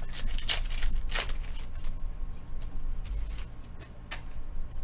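Trading cards and foil pack wrappers being handled: a few short scraping, rustling rasps in the first second and a half, then quieter sliding and soft low thumps of hands on the table.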